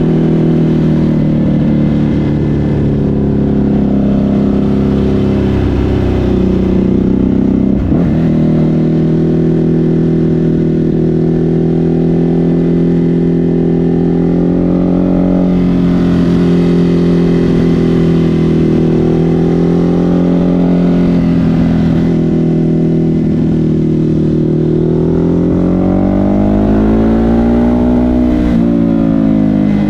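Ducati Hypermotard 950 SP's L-twin engine through an SC Project exhaust, heard on the move and running loud at fairly steady revs. There is a brief dip about eight seconds in, then the revs climb and drop sharply near the end, as at an upshift.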